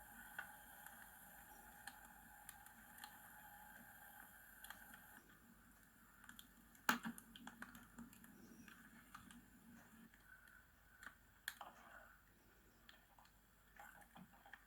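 Near silence with scattered faint clicks and small knocks, and one sharper knock about seven seconds in.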